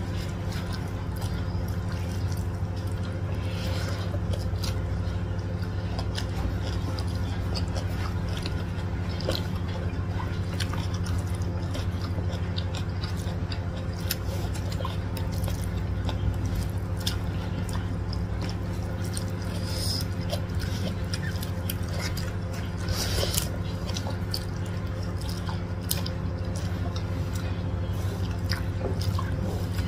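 Close-up eating sounds of people chewing rice and flat rice noodles eaten by hand, with many small wet mouth clicks and smacks. A steady low hum runs underneath.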